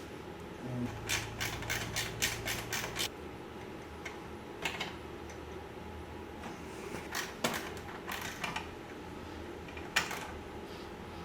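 Small metal parts and hand tools clicking and tapping as a mower engine's lower housing is fitted back on. A quick run of about eight clicks comes about a second in, then scattered single clicks and knocks.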